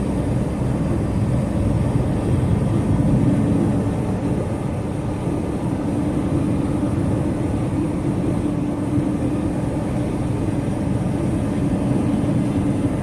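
Semi truck's diesel engine and road noise heard from inside the cab while driving at highway speed: a steady low drone with a constant hum through it.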